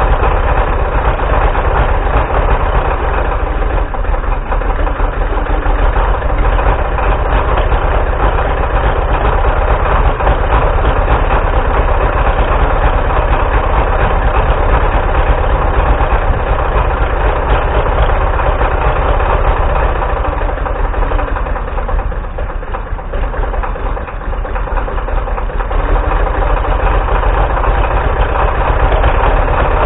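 Galion 503 grader's UD-236 diesel engine running rough just after a cold start, chugging unevenly as it struggles to stay running on glow plugs; its level sags briefly about two-thirds through, then picks back up.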